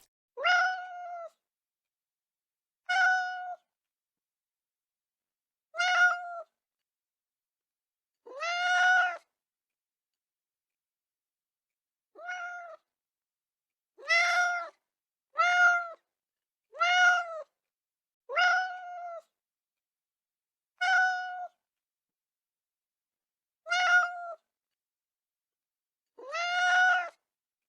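A cat meowing about a dozen times, short high-pitched meows each under a second long, spaced a second or more apart with dead silence between them.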